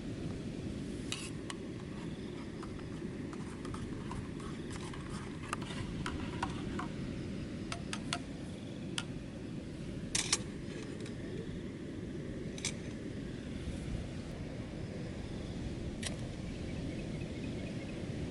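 Steady low rumble of wind outdoors, with scattered small clicks and taps and one sharper click about ten seconds in.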